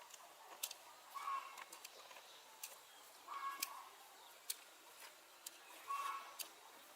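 A bird calling in short pitched notes, about once every two seconds, with scattered sharp clicks or taps between the calls.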